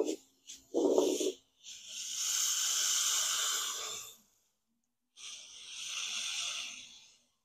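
Water sprayer misting the leaves of a potted philodendron: two long hissing sprays, the first about two seconds in and lasting about two seconds, the second near the end. Before them come two short, lower-pitched sounds.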